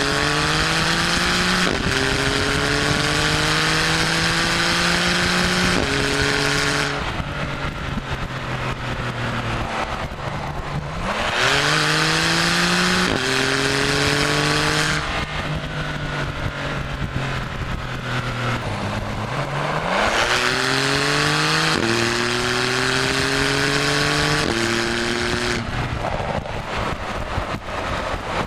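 Porsche 991 Carrera S twin-turbo 3.0-litre flat-six through a Supersprint stainless-steel valved cat-back exhaust, pulling hard three times. Each time the pitch climbs through two or three upshifts, and between the pulls it drops back off the throttle.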